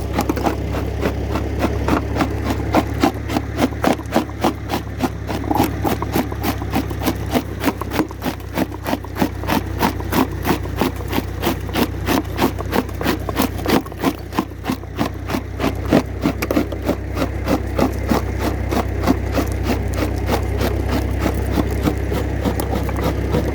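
Old belt-driven rock crusher working through lava rock, a steady rhythmic knocking and clatter about three times a second, over the low, even running of the old tractor engine that drives it.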